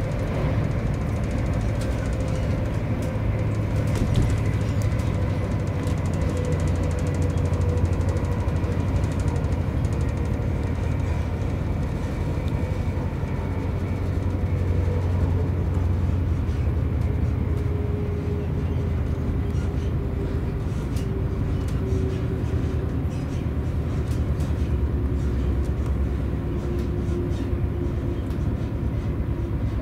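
Interior noise of a diesel-hauled Chiltern Railways coach running at speed: a steady low rumble of wheels on rails with faint clicks. A single tone slowly falls in pitch.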